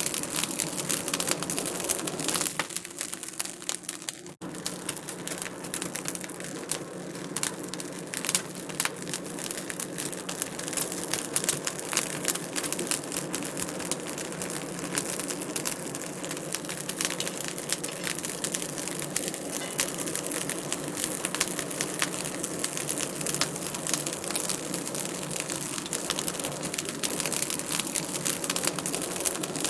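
Wood fire crackling in a fireplace: a dense, steady stream of small pops and snaps over a soft hiss of flame, with a momentary dropout about four seconds in.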